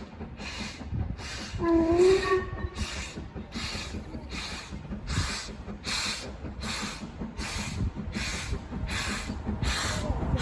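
Steam locomotive working slowly, its exhaust beating in an even rhythm of hissing chuffs, a little over one a second, over a low rumble.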